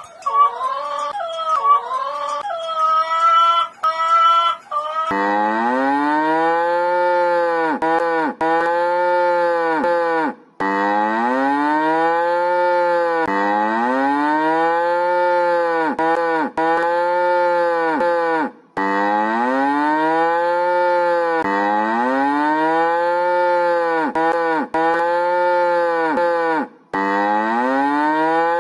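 A dog whines and howls briefly. About five seconds in, a cow starts mooing over and over: a long run of drawn-out moos, each two to three seconds long, rising then falling in pitch.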